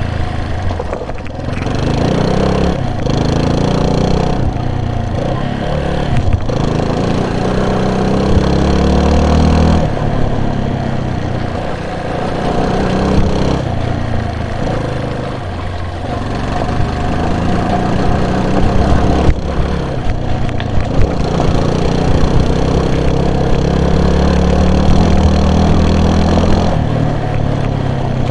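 A vehicle's engine running under changing throttle, its pitch rising and falling several times as it speeds up and eases off, with short dips in between.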